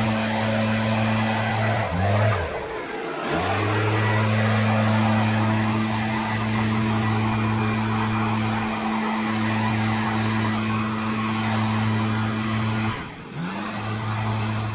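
An engine running at a steady speed, twice briefly pulled down and then climbing back up to speed.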